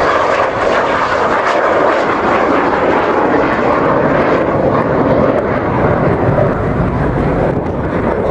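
De Havilland Sea Vixen jet fighter flying a turn with its undercarriage down, a steady loud noise from its twin Rolls-Royce Avon turbojets.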